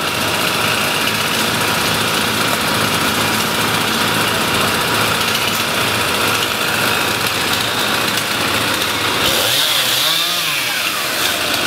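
Chainsaw running steadily; about nine seconds in it grows sharper and its pitch sweeps up and down for a couple of seconds.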